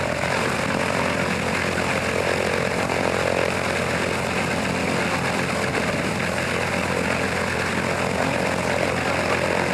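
Antonov An-2 biplane's nine-cylinder radial engine and propeller running steadily on the ground, with no rise or fall in revs.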